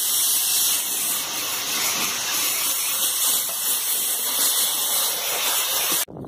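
Compressed air hissing steadily and loudly, cutting off suddenly near the end.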